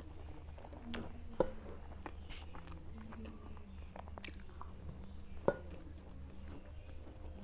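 Chewing and mouth sounds of someone eating maize-flour roti with mustard-greens saag by hand, with many small clicks and two sharper knocks, one about a second and a half in and one about five and a half seconds in, over a steady low hum.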